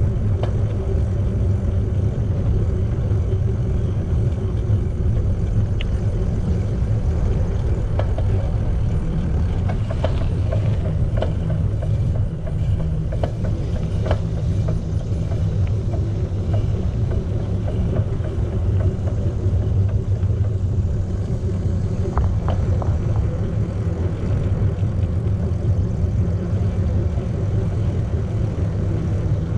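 Steady low rumble of riding a bicycle: wind on the microphone and tyres rolling on the path. A few light clicks and rattles come through in the middle and again later.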